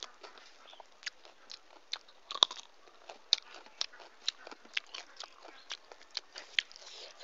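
Close-up eating sounds: wet chewing clicks and smacks, irregular, one or two a second, with the loudest about two and a half seconds in, along with a hand squishing rice and mashed potato against a steel plate.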